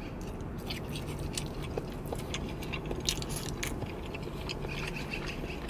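A person chewing a mouthful of soft, saucy food close to the microphone: a steady run of small wet mouth clicks and smacks.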